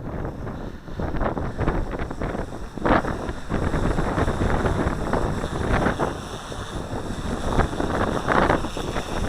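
Wind gusting hard across the microphone, in uneven buffeting swells, with a faint steady high whine from the SK450 quadcopter's electric motors and propellers beneath it.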